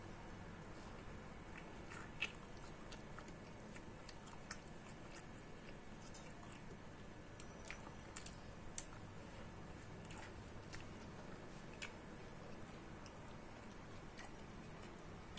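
A person chewing pizza waffle, with scattered small sharp clicks over a faint steady hiss.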